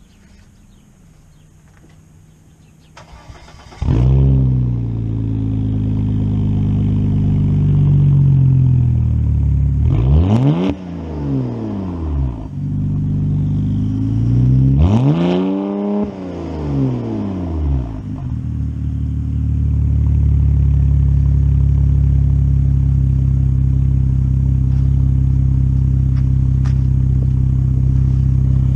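2000 Volvo S80 engine breathing through a new 3-inch cat-back exhaust, with the catalytic converters still in place. It fires up about four seconds in and idles, is revved twice, the pitch climbing and falling back each time, then settles to a steady idle.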